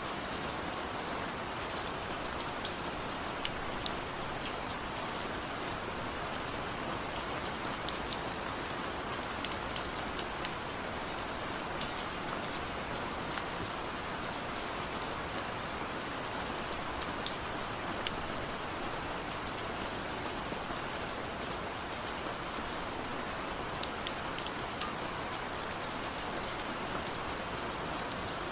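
Steady rain falling, an even hiss with many small drop clicks and pats scattered through it.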